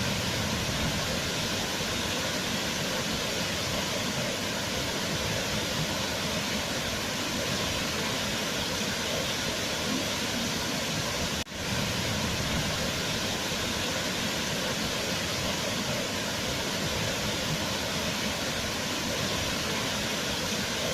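Waterfall rushing in a steady, even roar of falling water, with a brief dip in level about halfway through.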